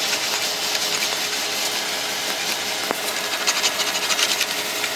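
Steel sheet-metal fender panel being rolled back and forth through an English wheel, a steady hissing, scraping roll with a few small ticks, as the panel's edge is stretched and bent over.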